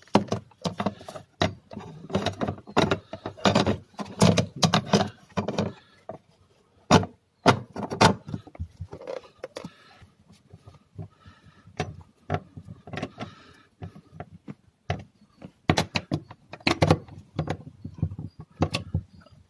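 Irregular clicks, knocks and rattles of car parts and a cover being handled and refitted by hand, with a few louder knocks about 7 to 8 seconds in.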